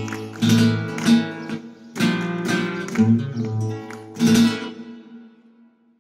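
Flamenco guitar playing strummed chords in sharp strokes; the last chord, about four seconds in, rings out and fades away.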